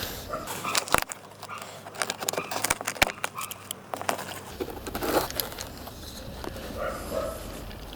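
Irregular clicks, knocks and rustling from car interior trim being taken apart and handled: plastic panels and fittings, with some crinkling of material.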